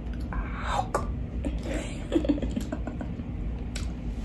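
Eating a Popeyes fried chicken sandwich close to the microphone: biting and chewing, with scattered crunches and short clicks.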